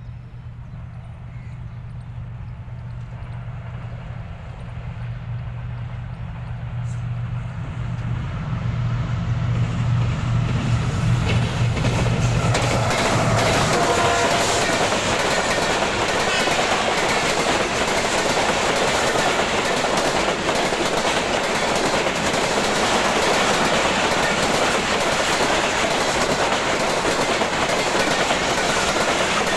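GEU-40 diesel-electric locomotive approaching with a steady low engine drone that grows louder. About twelve seconds in it passes, and the loud rush and rattle of the express coaches running through at speed follows.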